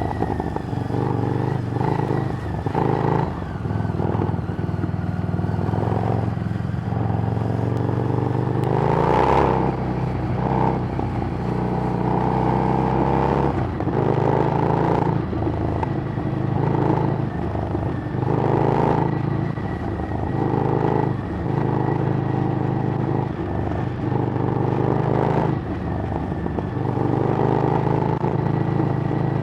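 Harley-Davidson Street Rod's 750 cc V-twin running through a Screamin' Eagle exhaust while riding, the revs rising and falling repeatedly.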